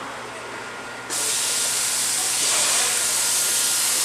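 A loud, steady hiss that starts suddenly about a second in and cuts off abruptly at the end.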